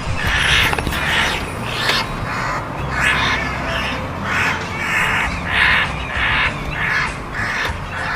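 Crows cawing over and over in harsh, rapid calls, about two a second, overlapping one another: the agitated calling of crows in a fight.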